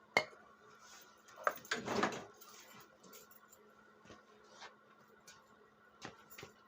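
Handling noises: a sharp click, then a brief scrape and rustle about a second and a half in, followed by a few light taps.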